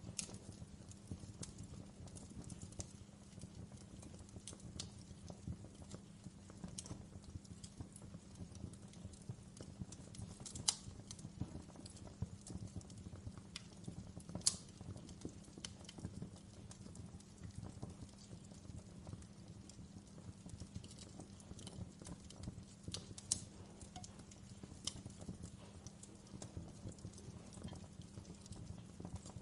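Wood fire in a fireplace crackling: irregular sharp pops and snaps over a low steady rumble, with a few louder pops spread through the middle.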